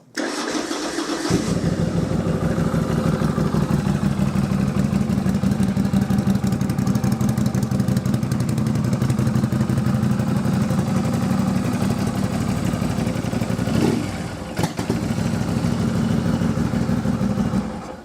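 Norton Dominator 961's 961 cc parallel-twin, fitted with a de-catted exhaust and short open pipes, is started and catches after about a second, then idles steadily. Its note shifts briefly about fourteen seconds in, and the engine cuts off just before the end.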